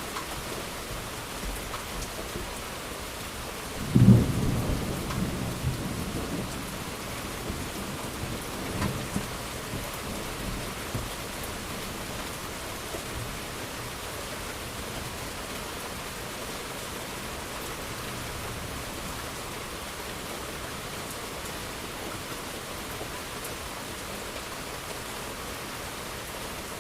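Steady rain falling. About four seconds in, a sharp thunderclap breaks out and rolls off as a rumble over several seconds, with a few fainter rumbles following.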